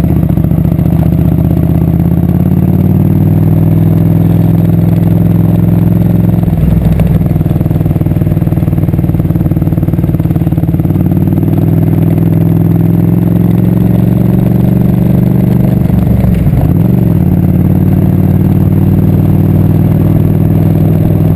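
Motorcycle engine running steadily while riding, its note holding level apart from two brief dips, about seven and about seventeen seconds in.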